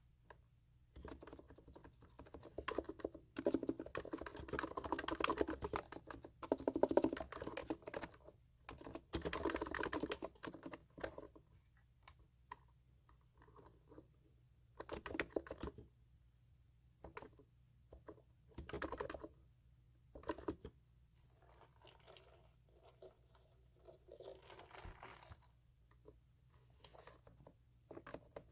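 Typing on a computer keyboard: dense runs of keystrokes for the first ten seconds or so, then shorter, sparser bursts of keys with pauses between them.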